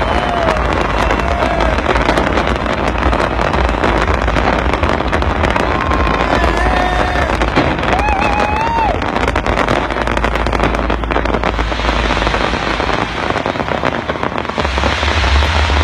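A big fireworks display crackling and banging without a break, under a constant low rumble of the bursts. Voices in the crowd shout out now and then.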